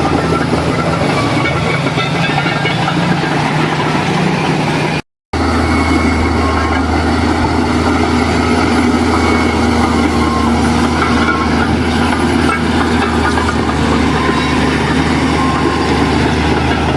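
Heavy diesel engine of earthmoving machinery running steadily under load, with the rumble of the machine working. About five seconds in the sound drops out for a moment, and after it the engine tone is deeper.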